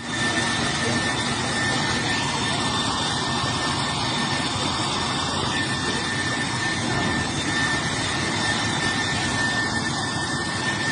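Jet aircraft engine running steadily, with a thin high whine over the rushing noise.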